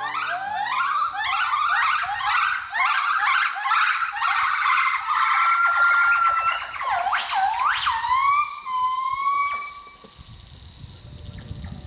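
Northern white-cheeked gibbon calling: a fast run of rising whoops that speeds up, then longer held notes and upward glides, dying away near the end.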